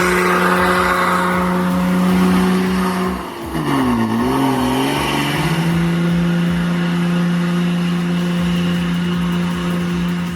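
Ford Cargo heavy truck's diesel engine running hard and steady under load; about three and a half seconds in the revs dip and waver for a couple of seconds, then settle back to a steady pull.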